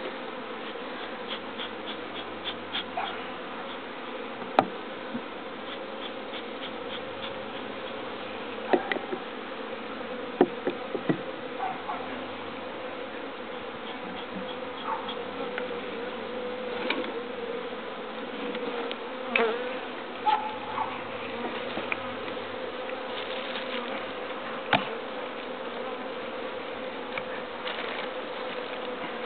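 A colony of honeybees in an opened hive buzzing steadily, a continuous droning hum, with scattered light clicks and knocks throughout.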